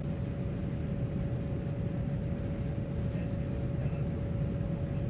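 Steady low rumble of cabin noise inside a Boeing 787-9 airliner, with a thin steady hum above it.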